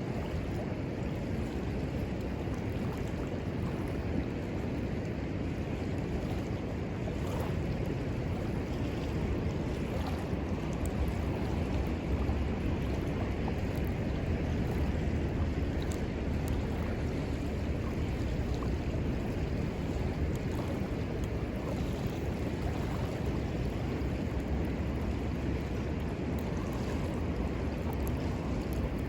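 Steady rushing of a river, with a few faint, scattered crackles from a wood campfire.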